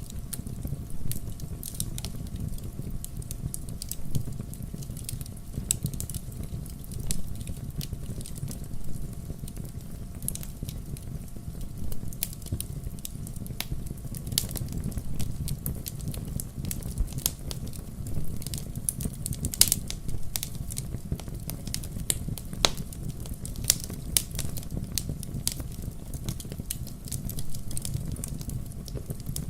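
Wood fire burning, with a steady low rumble and frequent irregular crackles and sharp pops from the burning logs.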